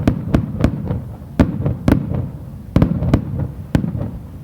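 Aerial fireworks shells bursting in quick succession, about eight sharp booms over four seconds with a low rolling rumble between them, dying away near the end: the last bursts of the display's finale.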